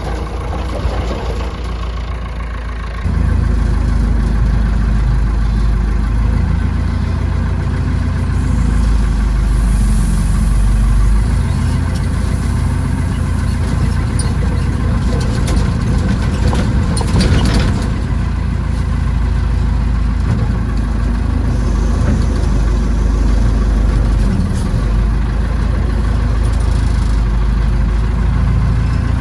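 Tractor backhoe's engine running steadily. It throttles up about three seconds in and keeps working under higher revs, with a brief rattle a little past halfway.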